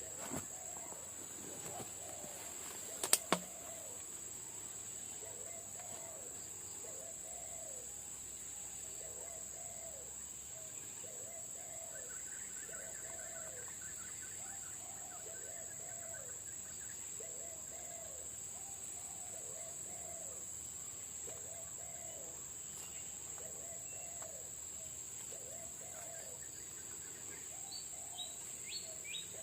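A single air rifle shot about three seconds in, a sharp double crack that is the loudest thing heard. Under it, a steady high-pitched drone of crickets or other insects, and a dove's cooing repeated about once a second.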